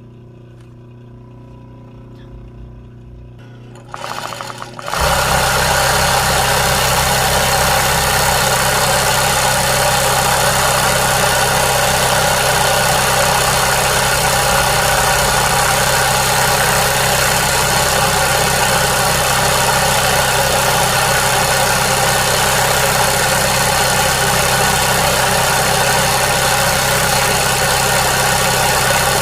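A loud, steady mechanical noise with a low hum switches on about four to five seconds in and keeps running unchanged, like a small motor-driven appliance.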